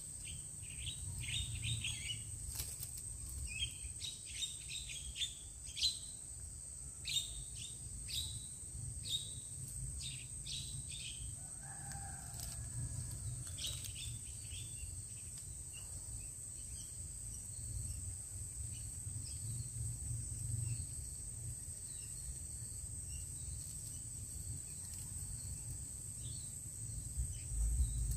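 Small birds chirping in short, quick notes, most of them over the first ten seconds or so, over a steady high insect drone.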